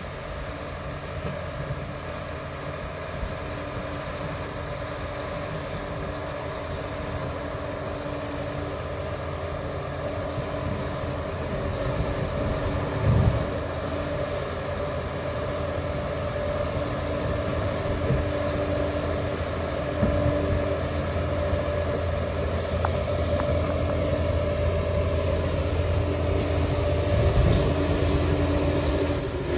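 Liebherr 746 crawler dozer's diesel engine running steadily and growing gradually louder, with a couple of low thumps.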